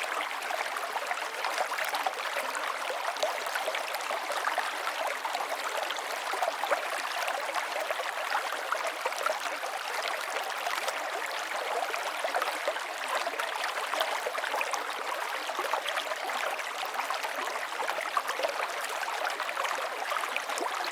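River water flowing: a steady rush with many small splashes and gurgles, and little deep rumble.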